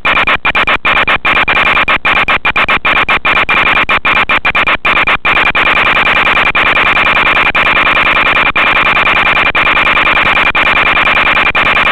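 Loud steady static hiss with a steady buzzing tone, from the audio channel of an analog FPV video link. It is broken by brief dropouts that come in quick clusters during the first five seconds, then about once a second.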